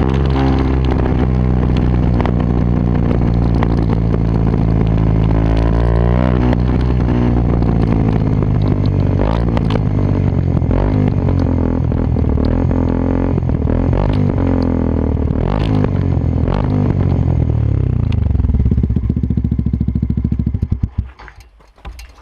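Yamaha WR125X's single-cylinder four-stroke engine through an aftermarket Takkoni exhaust, running and revved up and down several times. Near the end its firing beats slow and it cuts out.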